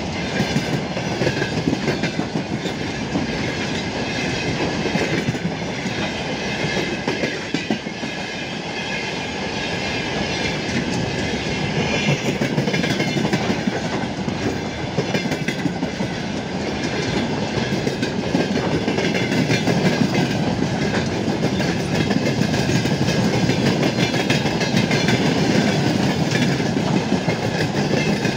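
Broad-gauge freight train of open coal wagons rolling steadily past, with the continuous rumble and clickety-clack of wagon wheels over the rail joints.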